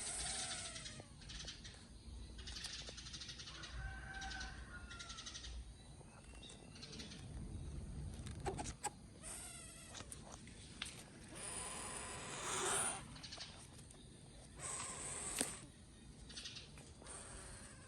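Young eagle chick calling: a series of high-pitched, squealing cries, each about a second long and a second or more apart.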